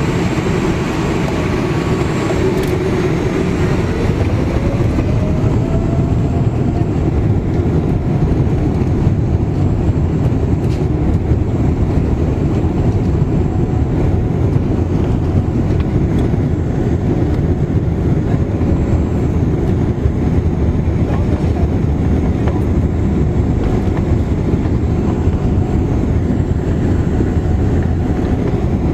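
Steady low rumble of a fjord ferry's engines heard from on board, unchanging throughout.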